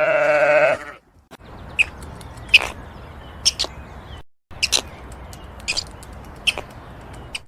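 A long, wavering bleat from a sheep or goat ends about a second in. Then a steady background hiss follows, with short, sharp high-pitched chirps about once a second.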